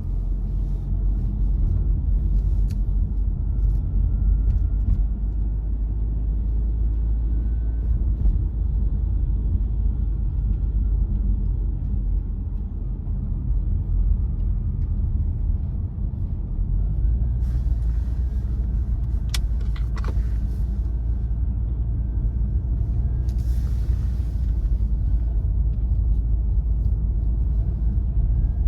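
Car driving on a winter road: a steady deep rumble of engine and tyres with a faint whine that shifts a little in pitch. A few brief clicks and short hisses come about two-thirds of the way through.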